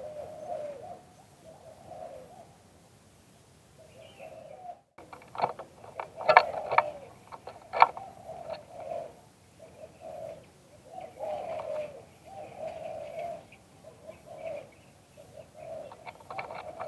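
A captive dove cooing over and over in short low phrases. A few sharp knocks or clicks come in the middle and are louder than the cooing.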